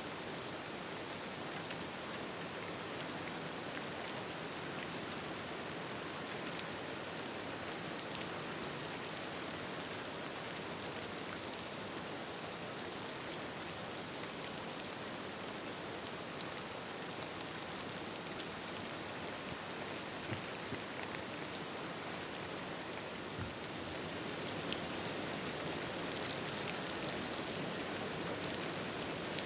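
Steady rain falling, an even hiss with a few sharp single ticks scattered through it, growing a little louder about three-quarters of the way through.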